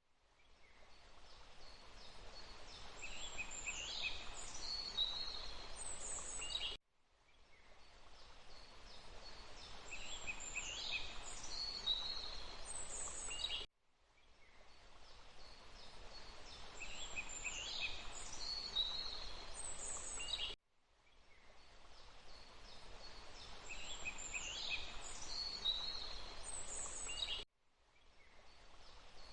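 Forest ambience: a steady rush of water with birds calling over it. It is a recording of a few seconds played on a loop, so about every seven seconds it cuts out abruptly and fades back in, with the same bird calls repeating.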